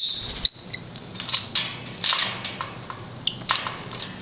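Pet parrots calling and scuffling: a short, high-pitched squawk, then scattered sharp chirps and clicks.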